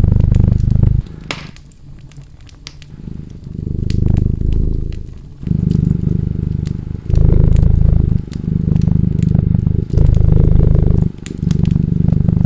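A cat purring close up in a steady rhythm of rumbling breaths, each about a second long with short breaks between, quieter for a couple of seconds near the start. Wood fire crackling underneath with scattered sharp pops.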